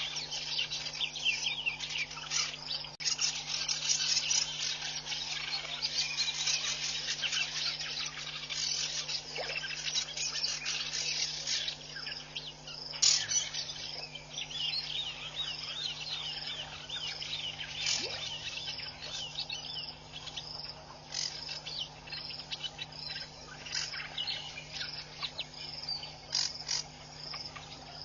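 A dense waterhole chorus of calling insects and crickets with some bird calls, over a low steady hum. From about halfway a high chirp repeats about once a second.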